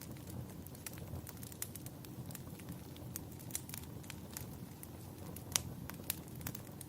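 Wood fire crackling: irregular snaps and pops over a steady low rumble of burning, with a louder pop about five and a half seconds in and another just after.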